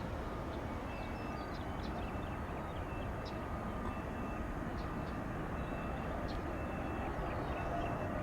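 Outdoor airfield ambience: a steady low rumble, with faint short high chirps scattered throughout.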